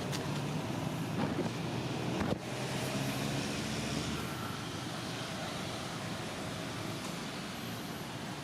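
Steady rumbling noise of a passing motor vehicle, with a few sharp clicks in the first couple of seconds.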